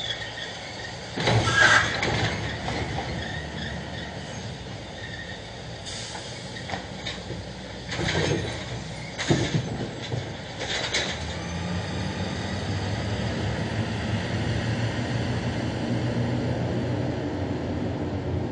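Garbage truck at work: a loud squeal about a second in, several sharp metal clanks over the next ten seconds, then the truck's engine running steadily for the last several seconds.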